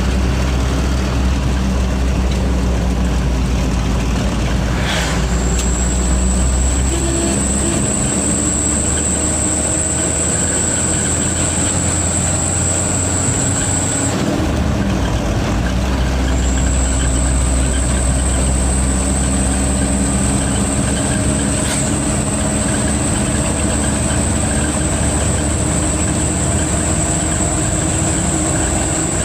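Diesel truck engine running steadily with a high, screaming turbocharger whistle. The whistle comes in about five seconds in, drops out for a couple of seconds around the middle, then returns.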